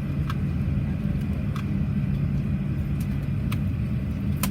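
Steady low hum in the cabin of a Boeing 737-800 standing on the ground after landing, with a few short clicks scattered through it.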